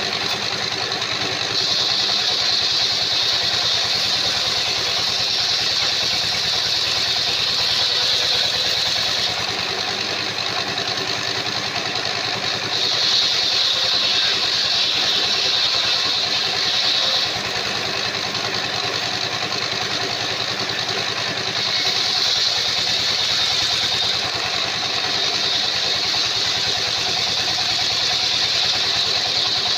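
Engine-driven circular sawmill running steadily, with a high saw whine that swells and fades in three long stretches as the blade cuts through timber.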